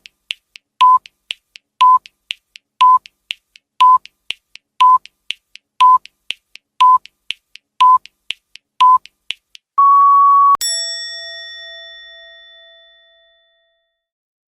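Electronic countdown-timer sound effect: a short beep every second with a fainter tick between each, ten beeps in all, then a longer beep about ten seconds in and a bright ringing ding that fades away over about three seconds.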